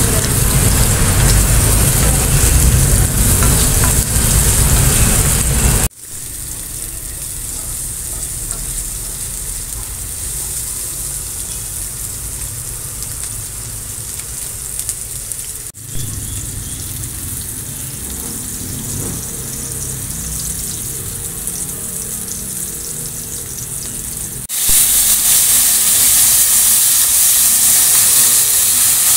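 Onion rings sizzling in hot oil in a frying pan while a spatula stirs them. The sizzle drops suddenly to a quieter level about six seconds in, then comes back loud near the end, where potato sticks are frying and being stirred.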